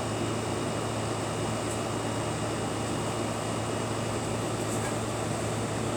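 Steady low hum under an even rushing noise.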